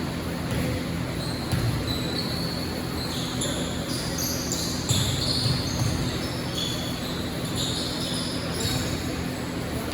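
Basketball game play: a ball bouncing on the court with dull thumps, and many short high squeaks of sneakers on the floor.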